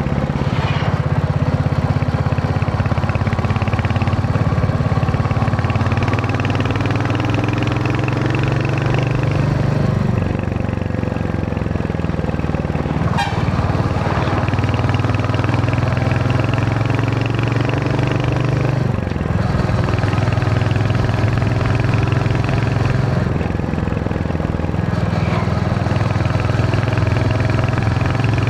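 Royal Enfield Hunter 350's single-cylinder engine and exhaust running under way, the note climbing steadily as the bike accelerates, falling back twice and then climbing again.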